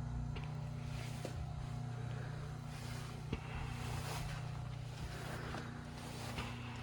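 Boiler room machinery humming steadily, with a few light clicks and swells of hiss over the hum.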